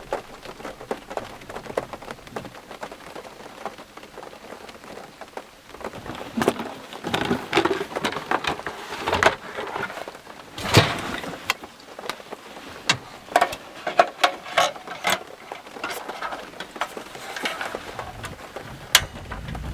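Heavy rain falling steadily, with many large drops striking close by one at a time; the hits grow louder and more frequent about six seconds in.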